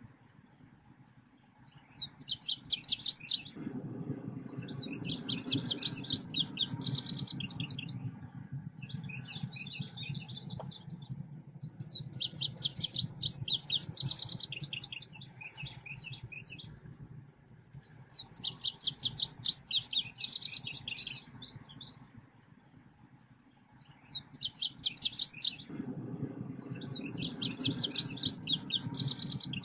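Recorded song of the selendang biru bird played as a lure call: repeated bursts of rapid, high chattering notes, each lasting a second or a few, with short gaps between. A low hum lies under much of it.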